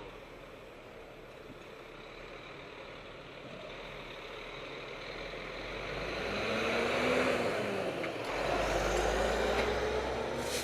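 Truck driving past, its engine and road noise growing louder through the middle. The engine pitch rises and then falls about seven seconds in, and a deep low rumble comes in about eight seconds in.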